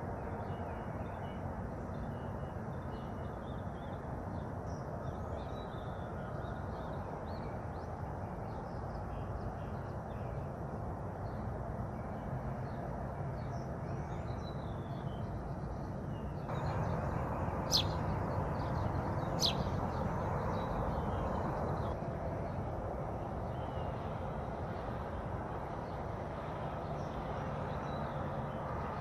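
Small birds chirping and twittering over a steady low rushing background, which grows louder for several seconds past the middle. Two sharp clicks sound about a second and a half apart, a little past the middle.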